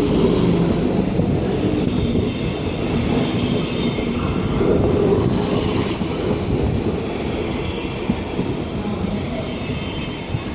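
A train running past on the tracks, its noise slowly fading toward the end.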